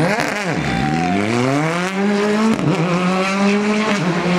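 Rally car engine: the revs drop sharply at first, then climb steadily as the car accelerates out of the corner. A brief dip in pitch about two and a half seconds in marks a gear change, after which the engine holds a steady high note.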